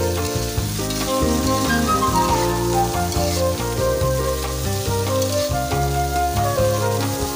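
Chayote strips and chillies sizzling as they are stir-fried in a wok and turned with a spatula, under background music with held notes and a bass line.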